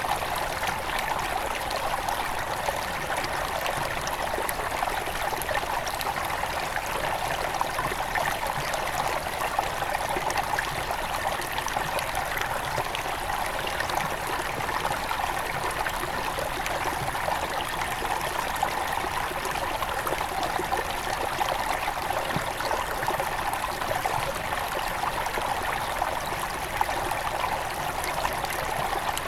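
Shallow headwater river flowing over rocks: a steady, continuous babble of running water.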